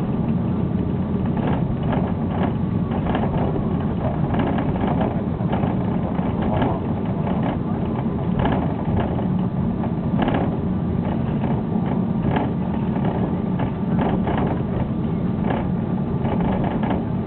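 Cabin noise inside an Airbus A330 on the ground after landing: a steady deep rumble from the engines and the aircraft rolling, with constant rapid rattling and clicking from the cabin fittings.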